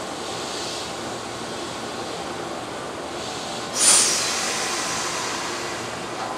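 Electric trains running at a station platform: a Keihan 8000 series train moving slowly out while a green Keihan train approaches on the far track. About four seconds in comes a sudden loud hiss that fades over a couple of seconds.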